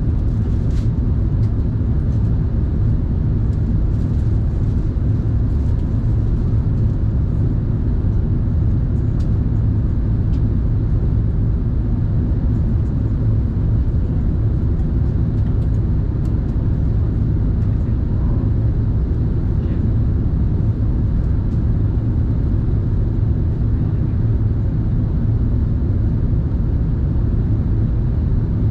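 Cabin noise of an Airbus A380 in flight: a steady, low roar of engines and airflow that holds level throughout.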